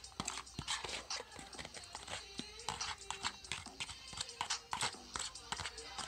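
Close-up eating sounds: chewing and lip-smacking, many quick irregular clicks and smacks one after another.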